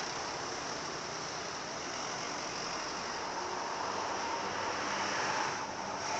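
Steady vehicle noise, a rushing hiss with no clear engine note, building slightly then easing off near the end.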